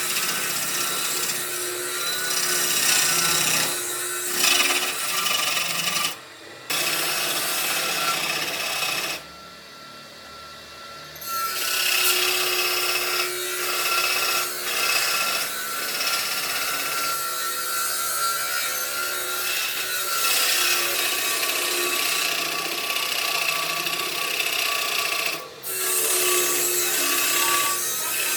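A power tool abrading wood: a continuous rasping, scraping noise with a steady motor tone underneath. It breaks off briefly about six seconds in, again for about two seconds around ten seconds in, and for a moment near the end.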